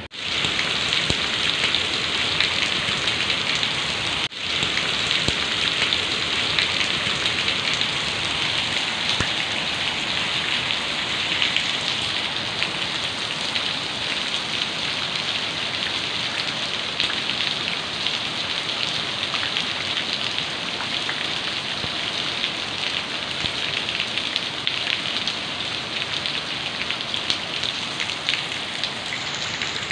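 Steady rain falling on grass, shrubs and a paved path, a dense even hiss of countless drops. It drops out briefly about four seconds in, then carries on unchanged.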